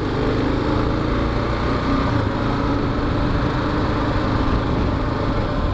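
Kawasaki KLR motorcycle's single-cylinder engine running at a steady speed, with road and traffic noise around it.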